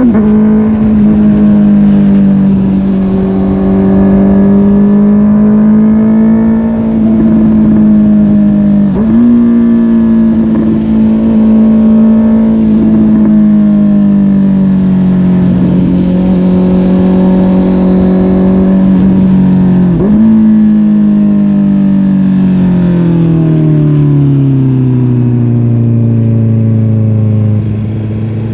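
Honda CB650R inline-four running through a MIVV GP Pro Carbon aftermarket exhaust while riding. The engine note sags slowly, jumps up in pitch twice (about a third of the way in and again past two thirds), then winds down steadily near the end as the bike slows.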